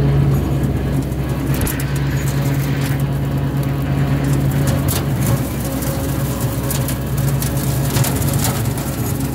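Small red tractor's engine running steadily under way, with scattered clicks and rattles over the hum.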